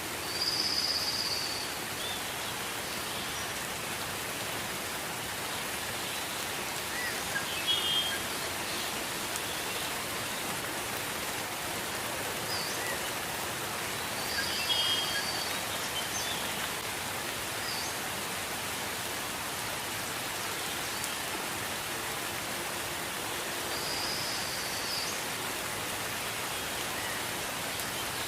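Steady gentle rain, an even hiss. A short, high chirping call comes through three times, about ten seconds apart.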